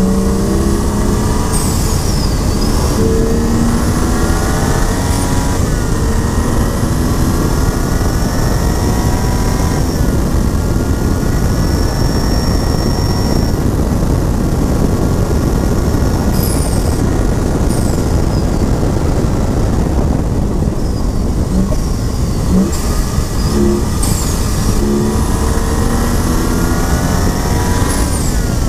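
2011 BMW 135i's tuned turbocharged inline-six pulling hard on track, its pitch climbing through the gears with upshifts about five and ten seconds in. The engine note sinks under heavy road and wind noise for a stretch in the middle, then climbs again near the end.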